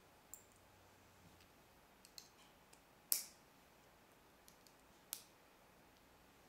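Plastic Lego pieces clicking as they are handled and pressed together: a few sharp separate clicks with fainter ticks between, the loudest about three seconds in.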